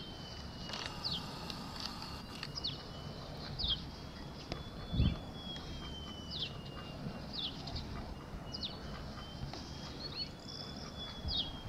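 Small birds chirping in a farmyard: short, falling high chirps about once a second over a thin, high tone that slowly wavers in pitch, with a single low thump about five seconds in.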